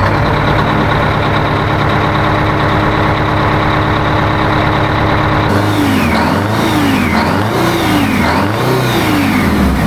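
A 1980 Peterbilt 359 semi truck's diesel engine running just after being started: a steady idle at first, then revved up and down about four times in the second half.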